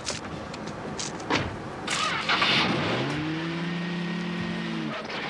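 Car door and seat clunks, then a car engine starting about two seconds in; it revs up, holds at a steady higher speed, and drops back near the end.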